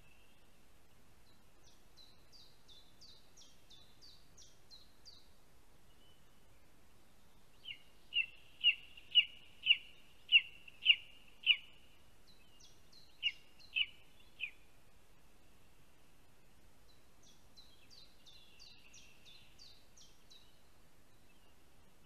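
Birds calling: short runs of quick high notes, and in the middle a louder series of about eleven sharp call notes, about two a second, which stops briefly and resumes for three more.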